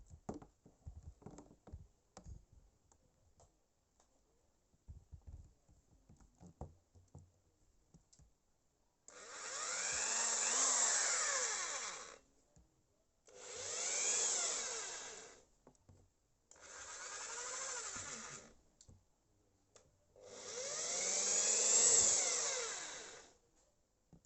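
Kenmaster KM-008 13 mm electric impact drill run free four times, each run speeding up with a rising whine and winding down again as the trigger is released. Before the runs, faint clicks of the drill being handled.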